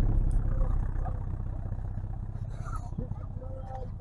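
A car engine running, its low rumble fading steadily as it moves away.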